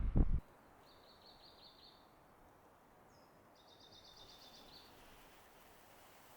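A small songbird singing two trills of rapid repeated high notes, with a short higher call between them, over quiet forest ambience. A low rumbling thud at the very start cuts off abruptly.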